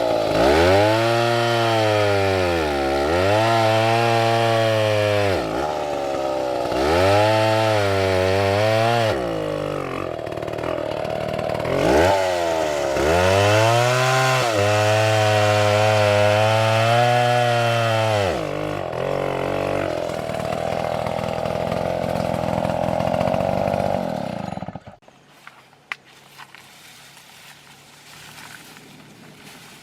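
Stihl two-stroke chainsaw cutting wood, its engine pitch sagging under load in the cut and climbing back between cuts, four times over. It then runs steady at high revs and cuts off abruptly near the end.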